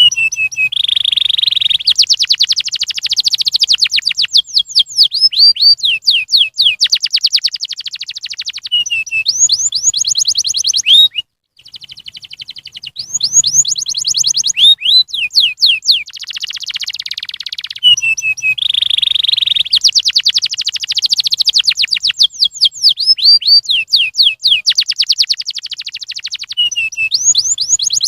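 Domestic canary singing: long, rapid trills and quick sweeping whistled notes, loud and high-pitched. There is a brief pause about 11 seconds in, then the same run of phrases repeats. This is lure song ('pancingan'), played to prompt other canaries to sing.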